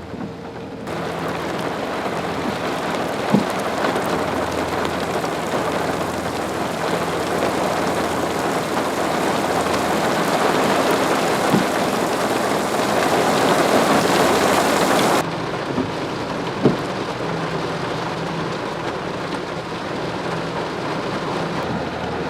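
Heavy rain pelting the car in a thunderstorm downpour, a dense steady hiss with the odd sharp drop impact. It starts suddenly about a second in and falls off abruptly to a lighter rain about fifteen seconds in.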